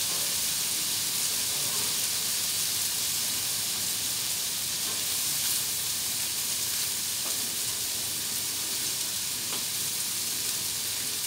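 Bacon, chicken and chorizo sizzling steadily on a hot Blackstone propane flat-top griddle, a constant frying hiss with a few faint ticks.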